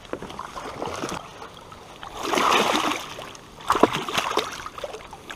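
Water splashing and sloshing as a hooked largemouth bass thrashes at the surface while being played in, with a louder rush of splashing about two seconds in and a few sharp splashes shortly after.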